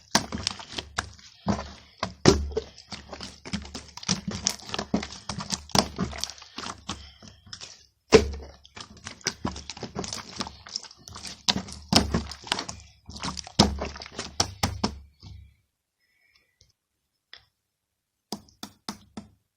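Rapid, irregular tapping and clicking, several knocks a second, many with a dull thud under them. It stops about three quarters of the way through, and a few more clicks come near the end.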